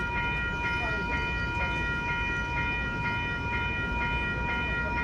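Railroad crossing warning bell ringing steadily, struck about twice a second, over a low rumble.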